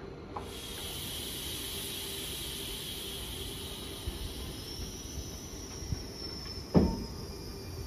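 A train at a station platform: a steady high hiss with a faint high whine that rises and then slowly falls, and a single sudden loud knock near the end.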